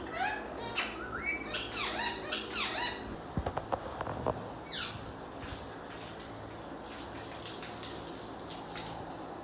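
Pet parrots calling with a run of short, gliding squawks for about three seconds, then a few sharp clicks and one falling call before they go quiet.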